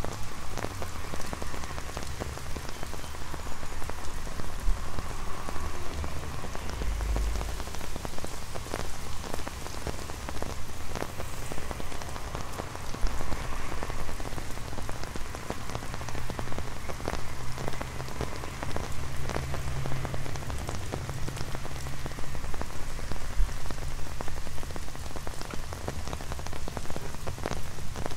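Rain falling on an umbrella overhead: a steady hiss thick with the ticks of single drops. A low rumble of road traffic runs underneath.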